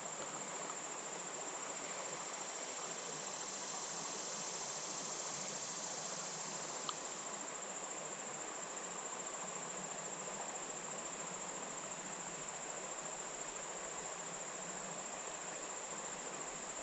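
Insects trilling steadily in one unbroken high tone, over an even background hiss, with a single small click about seven seconds in.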